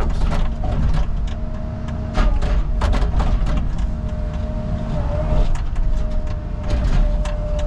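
Caterpillar 306 mini excavator running under load with a steady whine, over repeated cracks, knocks and crunches of mobile home roofing (sheet aluminum, steel, wood) being torn apart.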